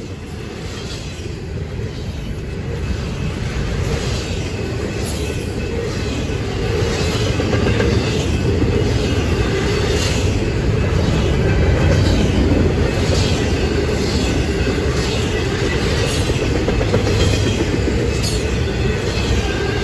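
Intermodal freight train's double-stack well cars rolling past: a steady rumble of steel wheels on rail with repeated clacks as the wheels cross rail joints, growing louder over the first several seconds and then holding.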